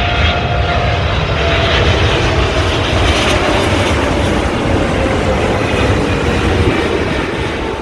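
Jet engines of a Boeing 777 on landing approach: a loud, steady rumble with a whine that slowly falls in pitch.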